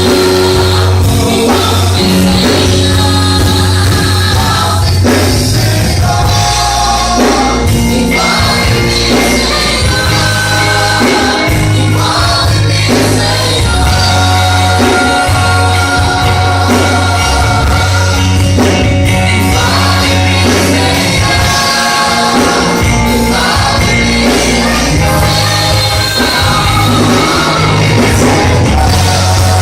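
Choir singing a gospel worship song with a live band: a steady bass line and sustained sung and instrumental notes.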